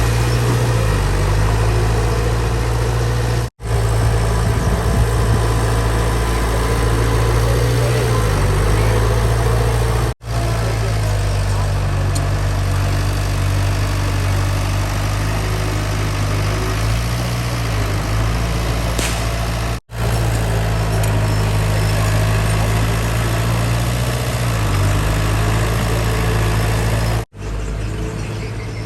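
Heavy diesel engine of earthmoving machinery running steadily at low revs, with a few brief dips in pitch. The sound breaks off for a split second four times and comes straight back, the last time somewhat quieter.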